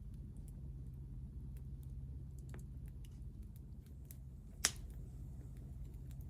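Wood fire crackling in a homemade mesh fire stand: scattered small snaps over a low steady rumble, with one louder pop a little over halfway through.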